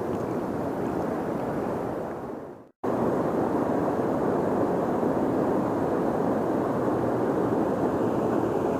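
Steady rushing of flowing river water. It fades and cuts out for an instant about a third of the way in, then carries on unchanged.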